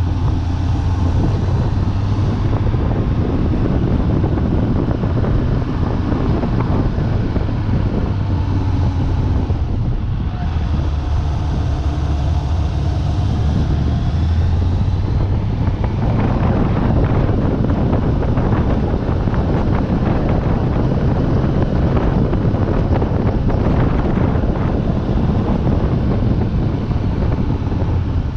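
Suzuki Bandit 600's inline-four engine through its original exhaust, revs rising and falling as the motorcycle accelerates and eases off through bends. Wind buffets the microphone throughout.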